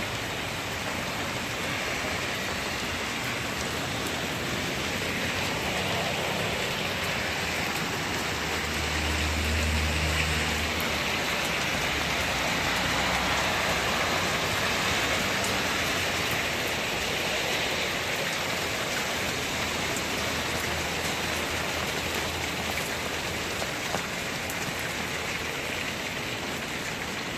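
Hail coming down hard: a steady, dense hiss of hailstones with scattered sharper individual hits. A low rumble swells briefly about nine seconds in.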